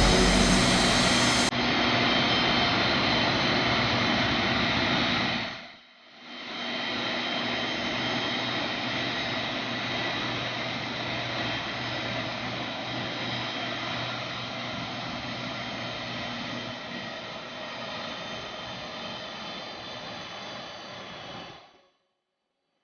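Jet engines of a large cargo jet running loud and steady, with a whine of several high tones over a rushing noise. It breaks off briefly about six seconds in, comes back, slowly fades, and cuts off suddenly near the end.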